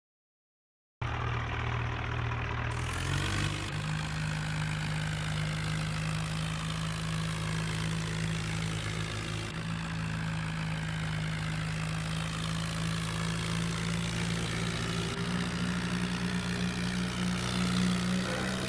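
Tractor engine running steadily. Its revs rise about three seconds in and climb a little again near the end.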